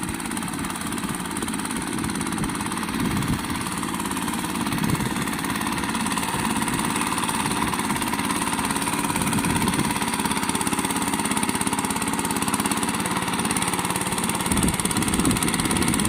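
Homemade mini tractor's engine running steadily.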